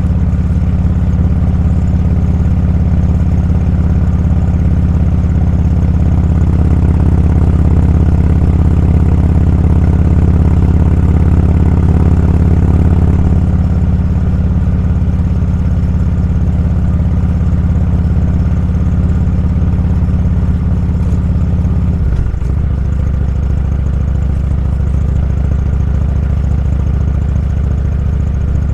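Motorcycle engine running steadily while riding, a loud low drone, with a brief dip and change in the engine note about twenty-two seconds in.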